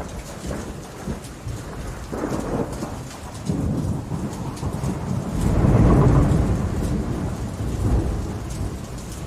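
Summer thunderstorm: steady rainfall with thunder rumbling in low swells, the loudest rolling peak about six seconds in.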